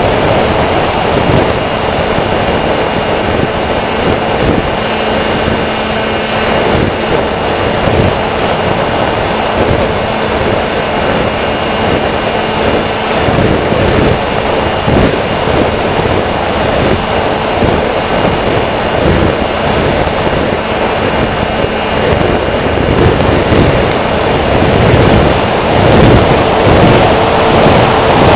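Electric motors and propellers of a radio-controlled tricopter running steadily, with a high whine held at several fixed pitches. Over it is a loud rushing noise broken by frequent short knocks.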